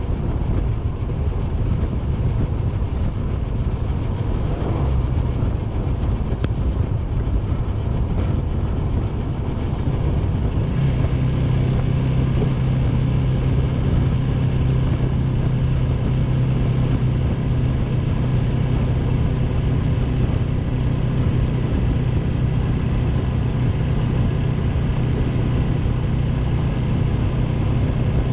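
AKT GP 180 motorcycle engine running while riding, under dense low wind rumble on the microphone; about eleven seconds in the engine settles into a steady hum.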